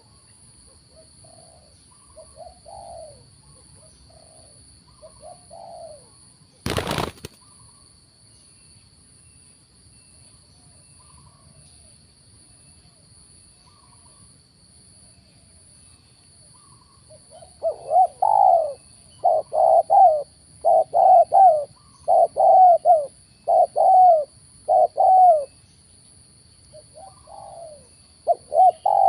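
Spotted doves cooing: soft scattered coos at first, then a loud run of about eight rapid coo phrases in the second half, with quieter coos near the end. A brief loud knock or rustle about seven seconds in, and a faint steady high-pitched tone throughout.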